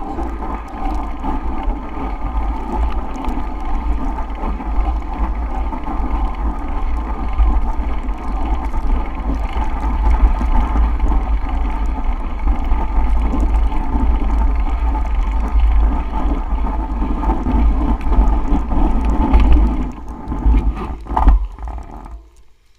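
Blizzard wind rumbling on the microphone over the steady rolling noise of a bicycle riding through snow. The noise dies down near the end, with a few knocks.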